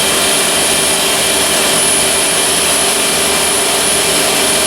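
Spindle of a Fadal VMC6030D-3HT vertical machining center running with no load at about 5,000 rpm: a loud, steady whirring hiss with a thin high whine that holds constant.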